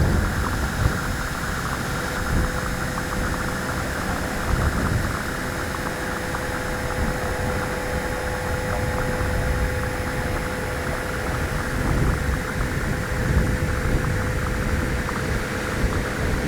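Strong wind gusting and buffeting the microphone in a windstorm, with a steady hum joining in about two seconds in.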